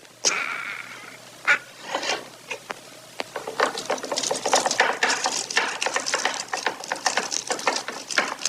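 A bird pecking and eating: a few separate taps, then from about three and a half seconds in a fast, busy run of dry clicking and tapping.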